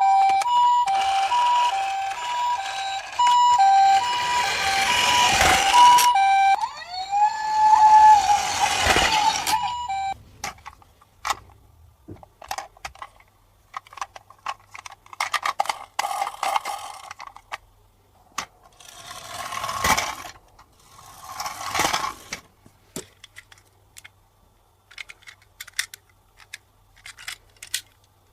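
Electronic two-tone siren of a toy ambulance, switching back and forth between a higher and a lower note for about ten seconds, then stopping. After it, scattered clicks and short rattling bursts.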